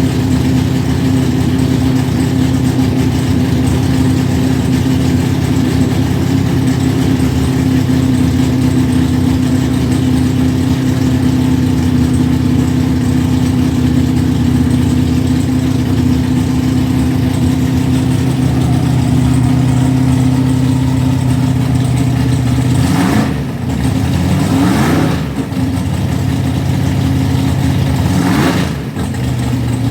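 Carbureted 548 cubic-inch big-block Chevy V8 running on E85, idling steadily after a cold start, on a setup that still needs tuning. Near the end the engine speed swings briefly three times.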